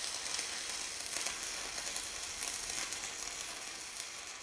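Electric arc welding: a steady crackling sizzle of the arc as a bead is laid on a steel bucket edge, slowly fading toward the end.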